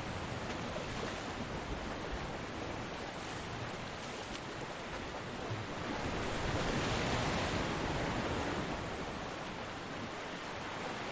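Ocean surf washing on a beach: a steady rush of waves that swells as a wave breaks about six seconds in and eases off again about three seconds later.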